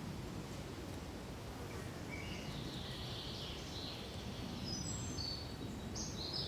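Small birds chirping and singing in short high notes, starting about two seconds in and coming thicker toward the end, over a steady low rush of wind in pine trees.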